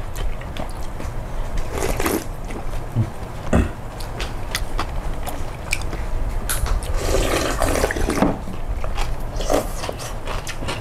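Eating sounds from a bowl of cold bean-soup noodles (kongguksu): wet slurps and sloshing of the soy-milk broth, with scattered sharp clicks of utensils against the bowl. The longest slurp comes about seven seconds in.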